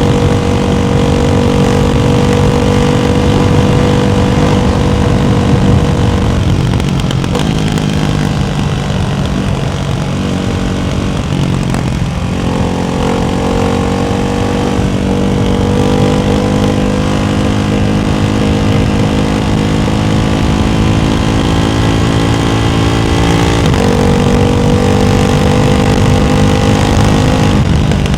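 Ducati Hypermotard 698's single-cylinder engine running through a baffled Termignoni exhaust at steady rpm, its note easing off about six seconds in, turning rougher for a few seconds, then picking up again around twelve seconds and shifting once more near the end.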